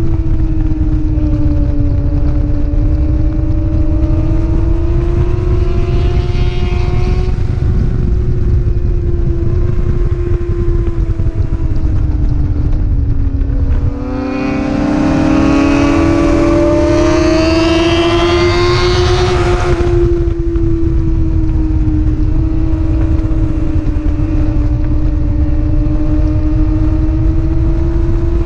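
Racing motorcycle engine held at high revs, with heavy wind rumble underneath. About halfway through the engine dips briefly, then pulls hard and rises in pitch for several seconds before settling back to a steady drone.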